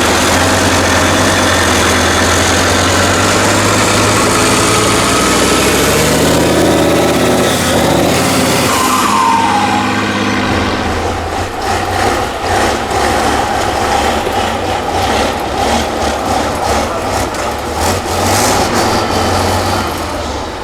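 Heavy 6x6 trial truck's engine running steadily, then revving with a rising pitch about six to nine seconds in. After that the engine surges up and down unevenly, with many short knocks and clatters.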